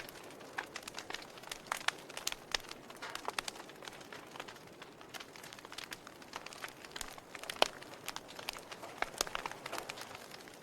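Campfire wood burning with irregular crackles and pops over a low hiss, one louder pop about seven and a half seconds in.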